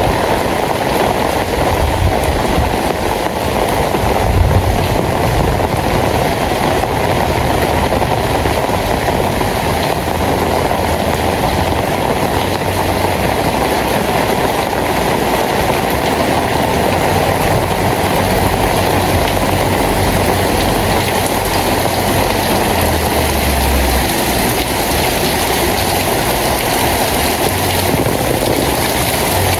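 Steady heavy rain, a dense even patter that keeps the same level throughout.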